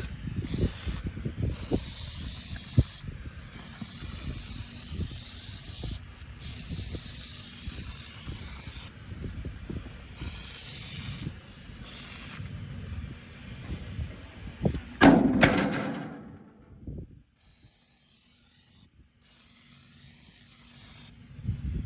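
Spray hissing on and off in short bursts onto the old hay baler's drive chain, with scattered clinks and knocks of metal being handled. There is a louder burst about fifteen seconds in, then it goes quiet.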